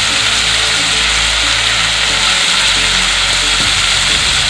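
Chicken pieces frying in hot oil in a wok, a steady sizzling hiss.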